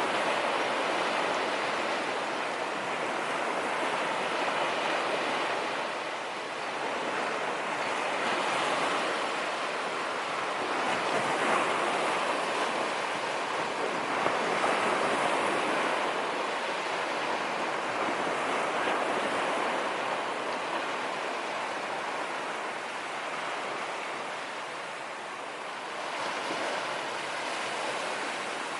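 Sea waves breaking on a sandy beach, a steady wash of surf that swells and eases every few seconds, with some wind on the microphone.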